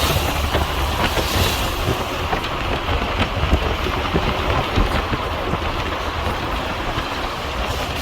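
Moving vehicle ride: steady low road rumble and wind noise with many small rattles and knocks.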